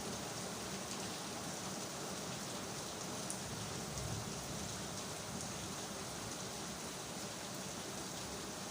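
Steady rain falling, a constant hiss of rain on hard surfaces with scattered drop ticks.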